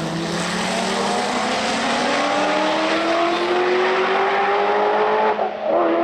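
Race car engine accelerating hard, its note climbing steadily for about five seconds. Near the end it breaks and drops in pitch, as at a gear change, then holds steady.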